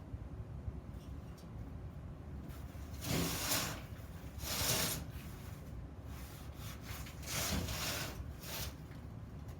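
Rubbing or scraping in four short strokes, each under a second, over a low steady background.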